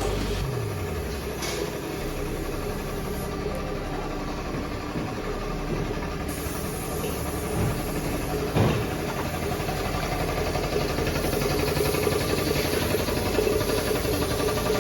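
An engine running steadily, with a few short knocks, about one and a half, seven and a half and eight and a half seconds in.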